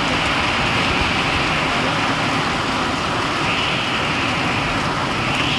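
Heavy rain coming down in a windstorm, a steady, even rush of noise.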